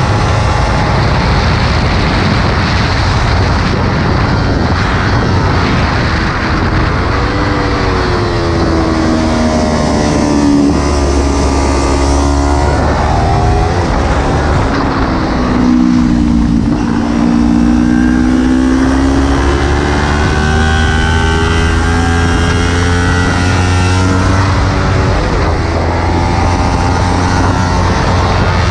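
Kawasaki Ninja 300's parallel-twin engine heard from on board at racing speed, its pitch dropping and climbing again as the revs fall and rise, twice in the stretch, over a constant roar of wind on the helmet-mounted camera.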